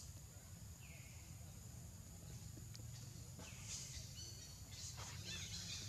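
Faint outdoor ambience: a steady low rumble with a few short high bird chirps, one falling chirp about a second in and more in the second half.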